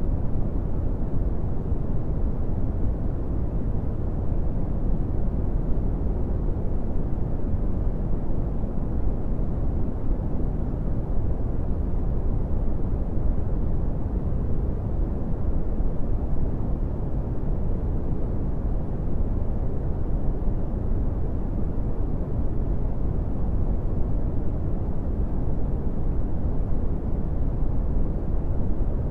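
Steady brown noise: a smooth, deep rumbling hiss, heaviest in the bass and dying away in the treble, with no changes or events.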